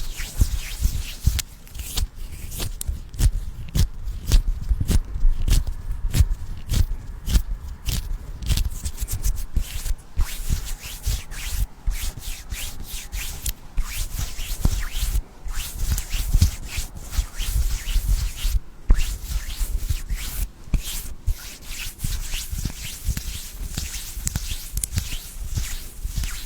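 Close-miked ASMR rubbing and scratching, with dense, irregular crackles and small clicks throughout.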